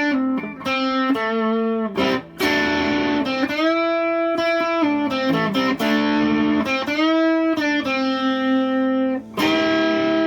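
Donner DST1 electric guitar played lead through an OCD overdrive pedal on the amp's lead channel. It plays sustained, overdriven single notes with string bends that rise in pitch. The playing breaks off briefly about two seconds in and again near the end.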